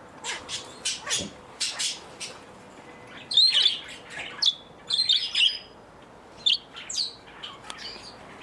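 Small pet parakeets chirping and squawking, with many short high calls that come in quick runs, the loudest about a third of the way in and again past halfway.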